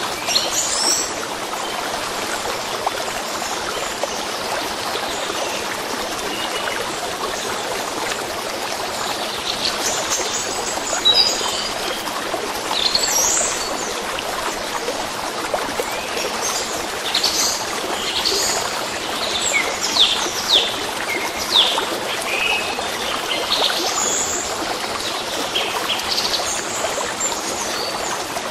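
A stream running steadily, with songbirds chirping over it, most of all in the second half.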